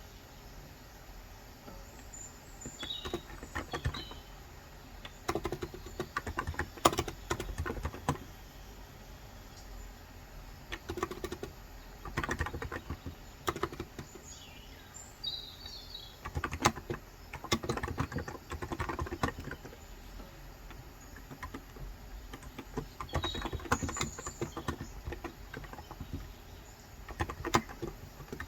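Typing on a Cox Endeavour electro-capacitive (Topre-style) keyboard with 35 g switches: runs of rapid key clicks in about six bursts with short pauses between. Birds chirp briefly in the background a few times.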